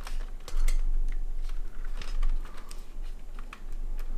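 Irregular light clicks and taps from hands handling parts of a small-form-factor PC build, over a low steady hum.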